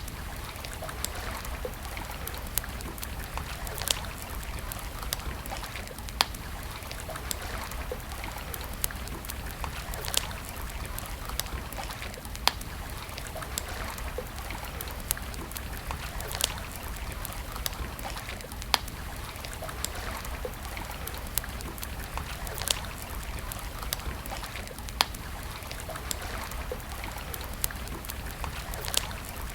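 Wood campfire crackling, with sharp pops every second or two over a steady rush of flowing water.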